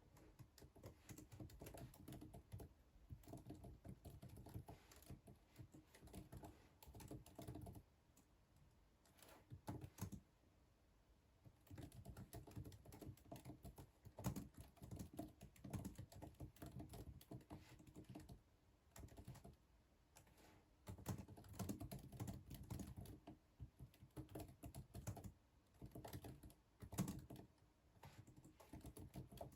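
Typing on a computer keyboard: quick, faint keystroke clicks in runs of a few seconds, broken by short pauses.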